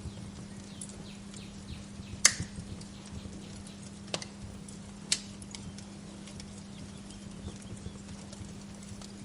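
Wood fire crackling in a fireplace: a steady hiss with scattered small ticks and three sharp pops, the loudest about two seconds in, over a steady low hum.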